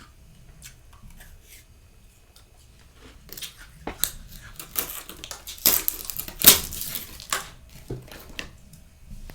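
Thick freezer frost crunching and crackling in a run of sharp crunches that starts about three seconds in and is loudest toward the middle, after a few faint clicks.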